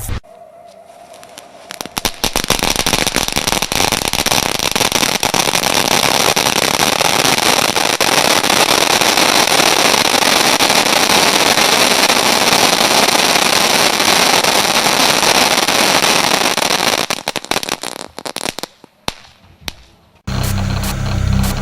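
The 'Crackling Fire' ground firework gives a dense, continuous crackle of tiny pops for about fifteen seconds, starting about two seconds in. It then thins to a few scattered pops and dies out. Music starts near the end.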